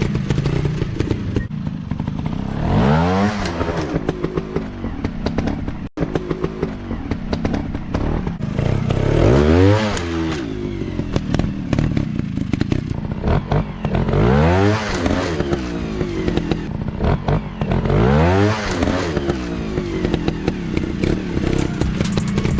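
Small single-cylinder dirt bike engines running under load and revving hard four times, each a big rise and fall in pitch about every four to five seconds, with some clatter.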